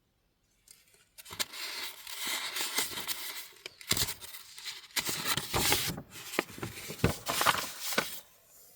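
Paper sheets being handled and shuffled: irregular rustling with sharp taps and clicks, starting about a second in and stopping shortly before the end.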